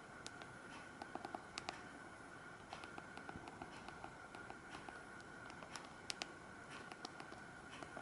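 Faint, irregular clicks of a mobile phone's keypad buttons being pressed, some in quick runs of several, over a steady faint high hum; no ringtone is playing.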